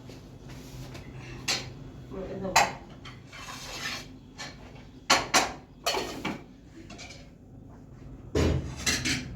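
Dishes and metal utensils being handled, with irregular clinks and clatters and a cluster of sharper knocks about five seconds in and again near the end.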